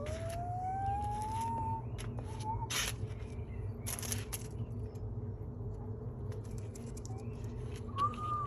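Washing machine running with a steady low hum, broken by several sharp knocks and clatters; a thin whine rises in pitch over the first second or so.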